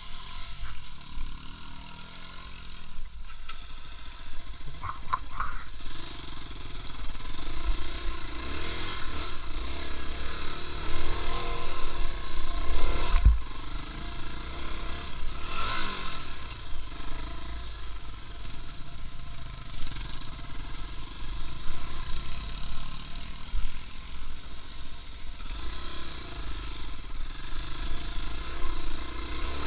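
Motor vehicle engine running as it is driven, its pitch rising and falling with the revs, with a sharp knock about halfway through.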